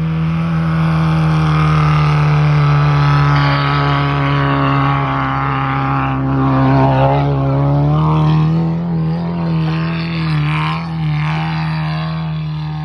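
Lada Niva engine running hard at steady revs, then the revs rising and falling unevenly from about eight seconds in.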